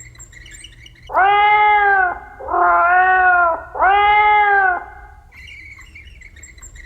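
Domestic cat meowing three times in a row, each meow about a second long and rising then falling in pitch.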